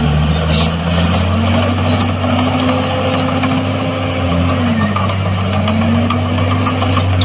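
Heavy diesel engine of earthmoving machinery running steadily. Its pitch rises about a second in, sags briefly just past the middle and recovers, as the revs or load change.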